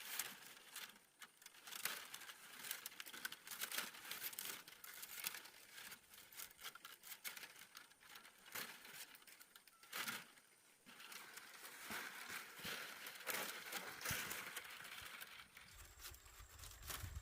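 Split bamboo strips rustling, crackling and clicking irregularly as they are woven by hand into a pot, with a few sharper taps. A low rumble comes in near the end.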